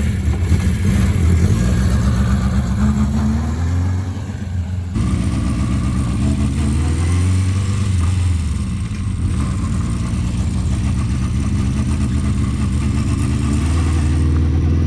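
Honda CB400/4 Super Sport's air-cooled inline four-cylinder engine running under way, its pitch rising twice as it picks up revs, then holding steady. The engine has one spark plug fouling.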